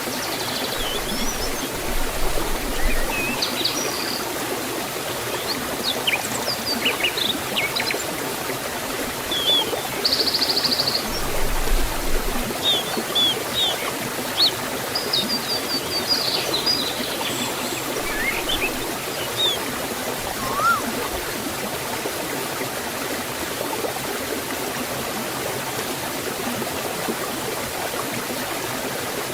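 Waterfall water flowing steadily, a continuous rushing wash. Small birds chirp and whistle over it in short scattered calls, stopping about two-thirds of the way through.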